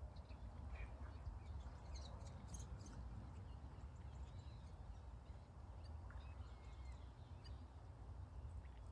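Faint scattered bird calls, short chirps and gliding whistles, over a steady low rumble.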